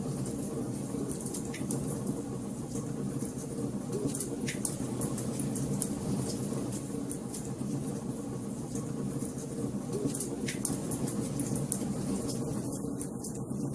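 Wood fire crackling in a fireplace: a steady hiss and low rumble of burning logs with many small, sharp pops scattered through it.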